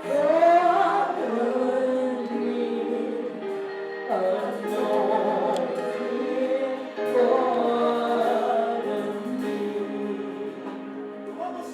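Group singing of a gospel worship song, in phrases that each start strongly and then trail off.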